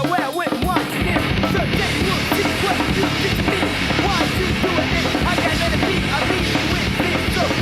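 Hardcore punk band playing at full volume: distorted electric guitar, bass and a drum kit, with a momentary drop just after the start before the band comes back in.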